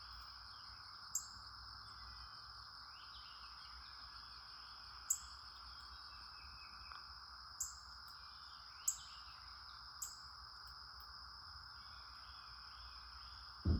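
Crickets trilling steadily, with short, sharp high bird chirps every one to three seconds and fainter bird calls behind them. A knock near the end.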